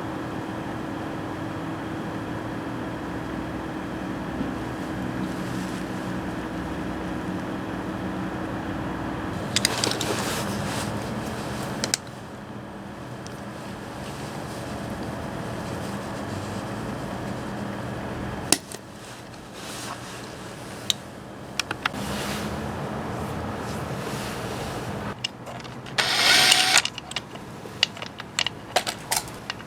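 Workshop noise: a steady hum, then a louder stretch about ten seconds in, scattered sharp clicks and knocks, and a short loud rattle a few seconds before the end.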